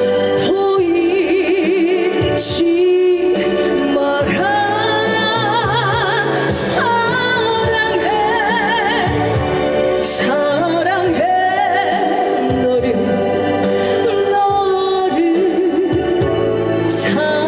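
A singer holding long notes with wide vibrato over a keyboard-led backing track, with a cymbal crash every few seconds.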